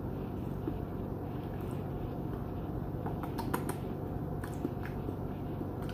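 Steady low room hum with small crisp clicks, a cluster about three and a half seconds in and a couple more near five seconds: close-miked mouth sounds of chewing a Brussels sprout.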